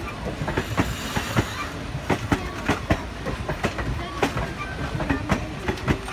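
Indian Railways passenger coaches rolling past, their wheels clicking over the rail joints about three or four times a second over a steady low rumble.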